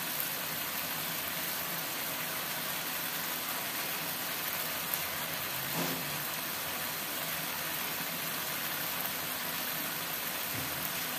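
Chicken, tomato and chili sauce sizzling steadily in a hot wok, with a metal spatula scraping the pan briefly about six seconds in.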